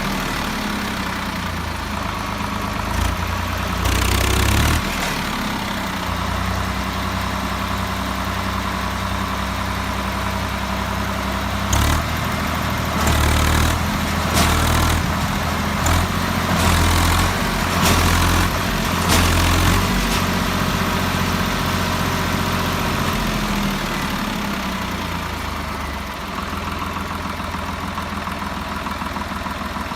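Swaraj tractor diesel engine running steadily at low revs, with louder stretches in the middle.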